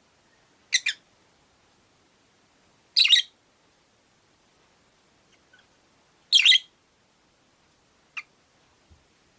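Peach-faced lovebirds giving short, shrill calls: a quick double call about a second in, louder harsh calls at about three and six and a half seconds, and a brief chirp near the end.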